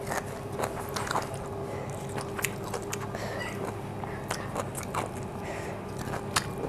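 Close chewing of crisp stir-fried broccoli and Brussels sprouts, with scattered sharp crunches as the vegetables are bitten.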